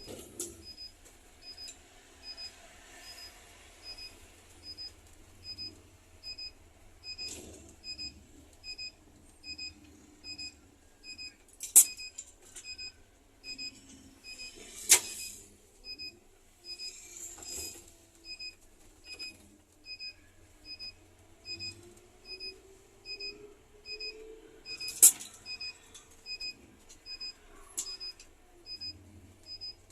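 Electronic warning beeper on a Scania coach, beeping steadily about every three-quarters of a second over a faint low engine hum, with three sharp loud clicks along the way.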